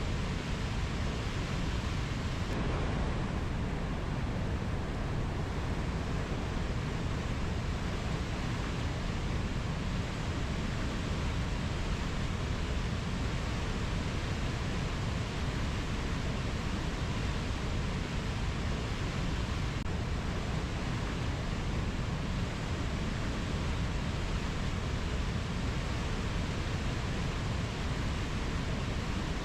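Steady, even rushing noise of a rainforest ambience recording, with no bird or insect calls standing out.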